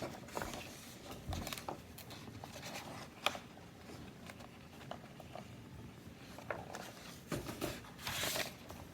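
Small handling noises in a small room: scattered light clicks and rubbing, with a longer rustle near the end.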